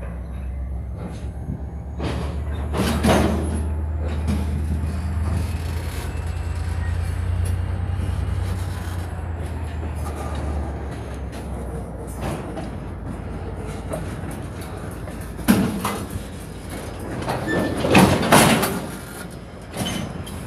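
Loaded centerbeam lumber cars rolling slowly on the rails, with metallic clanks and screeches from wheels and couplers, loudest about three seconds in and in a cluster near the end. A low diesel locomotive drone runs under it for the first half and fades out.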